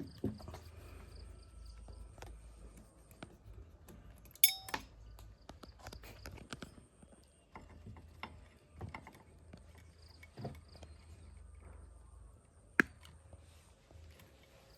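Scattered clicks and knocks of tools and metal parts being handled, with a sharp knock about four and a half seconds in and another near the end.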